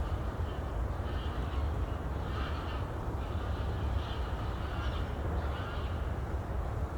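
A bird giving several short calls at irregular intervals over a steady low rumble.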